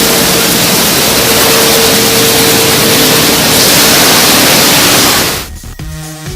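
Automatic car wash running: a loud, even rush of spraying water and machinery with a faint steady hum underneath. It cuts off suddenly near the end as electronic music comes in.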